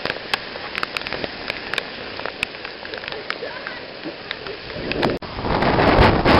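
Hurricane rain falling steadily, with many separate drops tapping close by; about five seconds in, it swells into a much louder rush.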